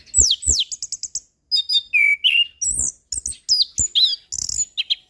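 Orange-headed thrush singing a varied song: two clear whistles falling steeply in pitch, then a quick run of short chirps and a string of varied whistled phrases.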